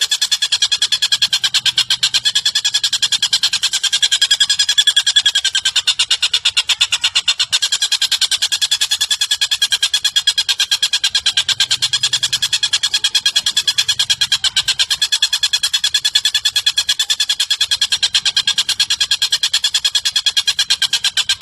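A rapid, unbroken trill of bird calls at a steady pitch, many sharp notes a second, from a looped bird-song training recording (masteran) of collared kingfisher and cililin calls.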